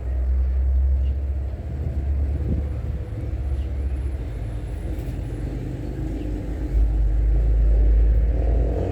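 A low rumbling noise that gets louder near the end.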